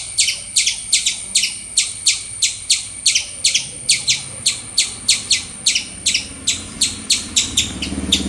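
Squirrel chirping: a fast, even series of short, sharp, high-pitched chirps, about three or four a second.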